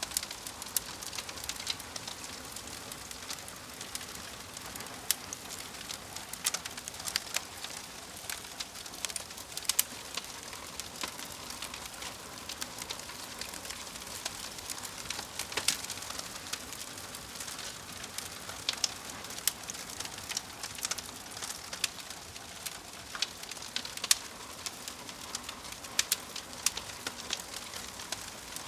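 Wood fire crackling in a fireplace: frequent sharp, irregular pops and snaps over a steady hiss of burning logs.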